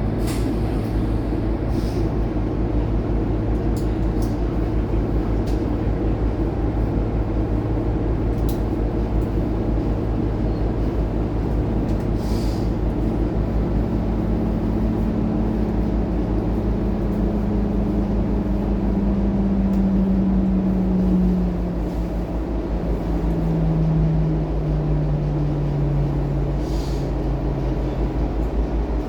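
Scania K230UB bus's five-cylinder diesel engine running under way, a steady low drone with a whining tone that steps down in pitch several times in the second half.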